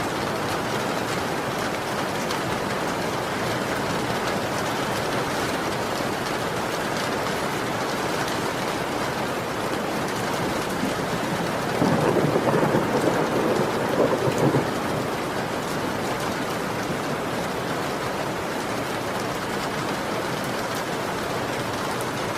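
Heavy rain falling steadily. About twelve seconds in, a rumble of thunder lasts a couple of seconds and is the loudest part.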